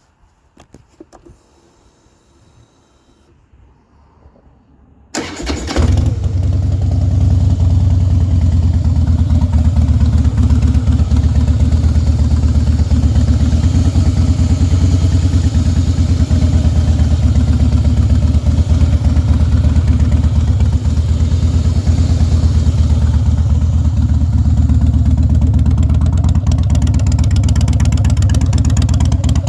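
Harley-Davidson V-twin with Vance & Hines Straightshots exhaust starting about five seconds in after a few faint noises, then idling steadily and loudly through the straight pipes.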